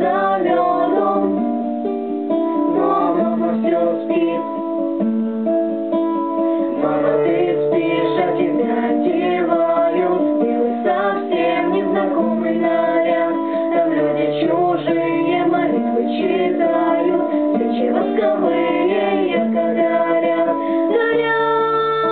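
Guitar playing an instrumental passage, plucked notes ringing over held bass notes.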